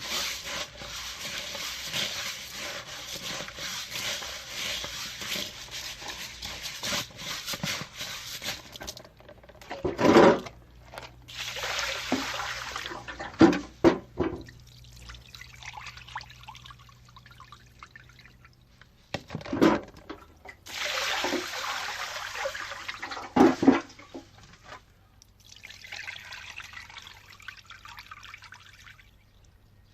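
Rice being scrubbed by hand in a basin of water, the grains and water swishing steadily, with four short, loud splashes of water spread through.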